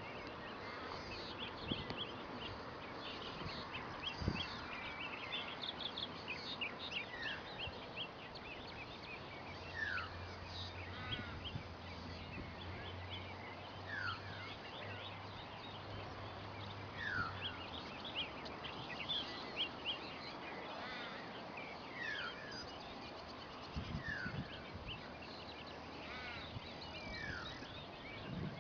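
Wetland bird chorus: many small birds chirping and twittering, with one bird repeating a short downward-sliding call every couple of seconds. A faint low hum runs through the middle for several seconds.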